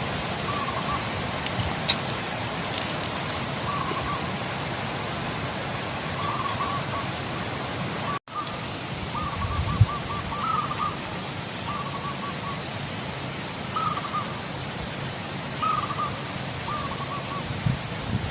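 Wild zebra doves (perkutut) cooing: short bouts of rapid, soft cooing notes, repeated every second or two over a steady outdoor hiss. The sound drops out for a moment a little past halfway.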